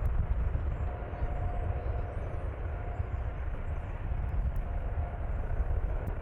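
Jet airliner engines running, a steady low rumble with a faint steady whine.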